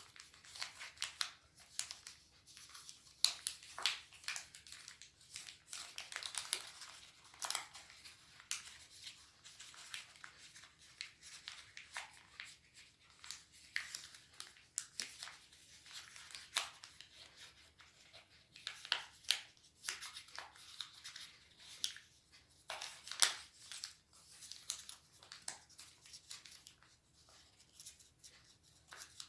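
Sheet of origami paper being handled and folded: frequent short crisp rustles and crinkles of the paper, with sharper snaps as folds are creased, thinning out near the end.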